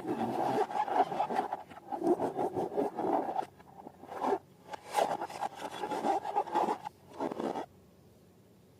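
Slime and balloons being handled, making irregular rubbing and scraping noises that stop near the end.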